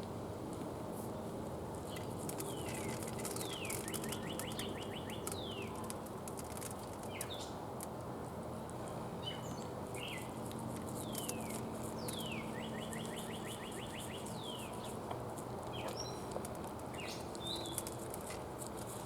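Wild birds singing outdoors: a song of quick downward-sliding whistles followed by a rapid trill, heard twice, with scattered short chirps, over a steady low background rumble.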